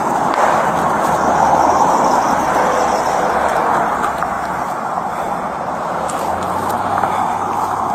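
Highway traffic passing: a steady rush of tyre and engine noise that swells about two seconds in, then eases off.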